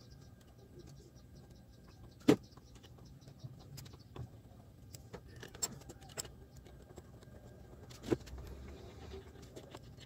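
Scattered handling clicks and knocks as wiring and parts are moved about inside a speaker cabinet, with a sharp knock about two seconds in and another near eight seconds, over a faint low hum.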